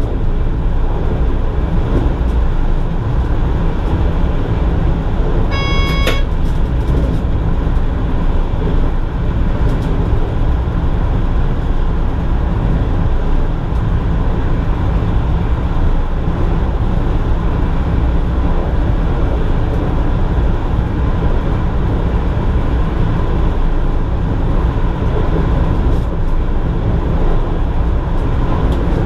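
An NS Mat '64 electric multiple unit running along the line, heard from the driver's cab: a steady, loud rumble of wheels on rails and running gear. About six seconds in, a short beep sounds for about half a second.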